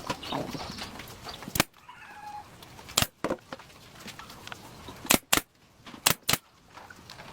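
A series of sharp knocks, six in all, the last four falling in two quick pairs, with faint short calls between them.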